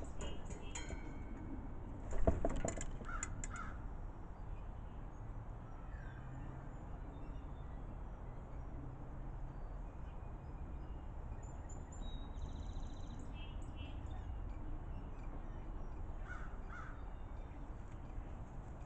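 Crows cawing: a loud burst with a few caws about two to three seconds in, then a couple more caws near the end, over a steady low background rumble.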